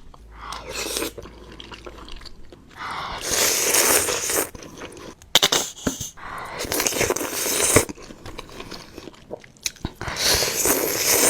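Close-miked eating sounds of a person eating pho with beef tendon. Mouth noises come in three long, noisy stretches, about three, six and ten seconds in, with quieter chewing between.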